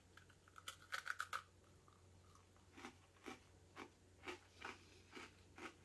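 Faint crunch of an Oreo sandwich cookie being bitten about a second in, then chewed with soft, regular crunching strokes about twice a second.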